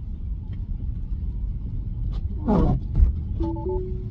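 Steady low road and tyre rumble inside a Tesla's cabin while driving on a snowy road. About two and a half seconds in there is a falling pitched glide and a thump. Near the end a short two-note chime from the car steps up in pitch.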